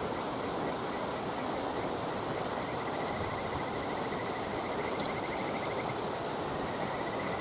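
Campfire burning against a steady rushing background, with one sharp pop about five seconds in. An insect trills fast and high through the middle.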